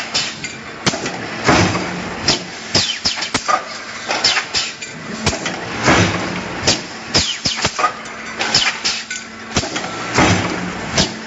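Metal-stamping machinery running: irregular sharp metal clanks and knocks, one to three a second, over a steady machine hum.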